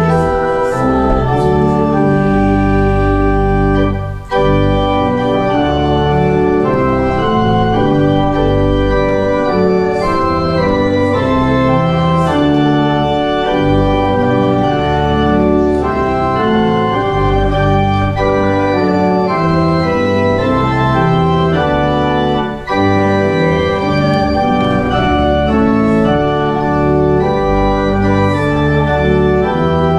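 Church organ playing a slow piece of sustained chords over a deep bass, the chords changing about once a second, with brief breaks about four seconds in and again near twenty-three seconds.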